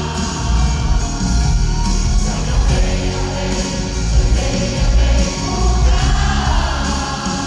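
Live pop-rock band playing with heavy bass and drums, and voices singing the melody over it.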